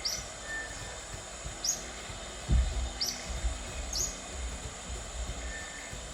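A bird repeating a short, sharp downslurred chirp about five times at uneven intervals over the steady rush of flowing water, with a low thump of wind or handling on the microphone about two and a half seconds in.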